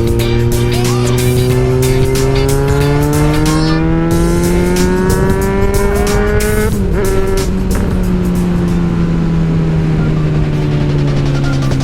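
Yamaha FZ6R's inline-four engine through an aftermarket exhaust, pulling under power with its pitch rising steadily for about six seconds. It shifts gear about two-thirds of the way through, and the pitch then eases slowly down.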